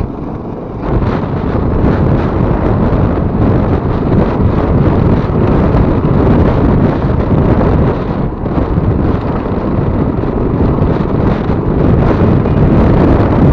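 Wind buffeting the microphone on a moving motorcycle, with a dull rush of riding noise beneath it; the level surges and dips unevenly, quietest in the first second.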